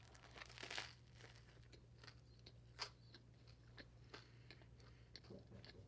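Faint close-up chewing of a banh mi, with soft crunches of the bread and scattered small mouth clicks, including a brief rustle-like burst near the start, over a steady low hum.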